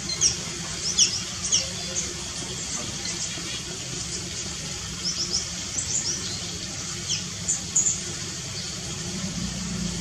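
Small birds giving short, high chirps, mostly in quick clusters of two or three, scattered through, over a steady hiss.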